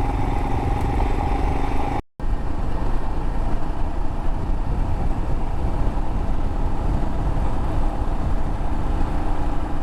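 Adventure motorcycle's engine running while riding at road speed, with steady wind rush over the microphone. The sound drops out briefly about two seconds in.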